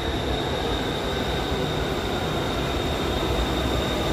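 Elevated metro train pulling in alongside the platform: a steady rumble of wheels on the track with a thin high-pitched whine held throughout.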